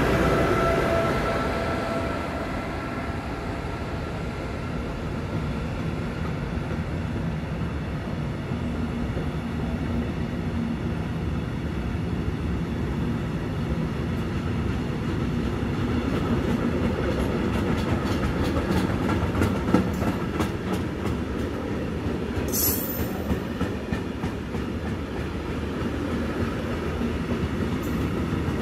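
Container wagons of a freight train rolling past: steady rumble of wheels on rails. A whine from the Vectron electric locomotive fades away in the first few seconds, and in the second half the wheels click rhythmically over rail joints.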